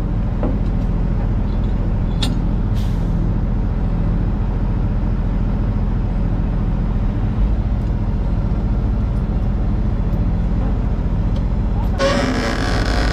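Peterbilt semi truck's diesel engine idling steadily. Near the end comes a loud, horn-like sound with several pitches held together, about a second long.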